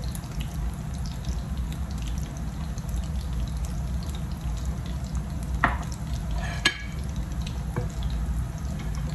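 Ground-beef omelette patties frying in oil in a pan, sizzling steadily with scattered small pops and crackles. A utensil knocks against the pan twice, a little past the middle.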